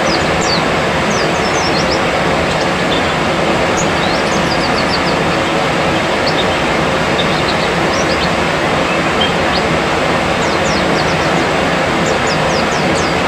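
Many short, high chirps of white-eyes (pleci) in quick scattered runs, over a loud, steady rushing noise.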